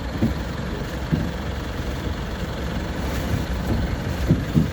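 Vehicle engine idling with a steady low rumble and a few soft knocks.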